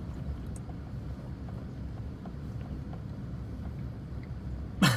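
Steady low rumble of wind on the microphone, with a few faint ticks. Just before the end comes one brief, sharp, louder sound.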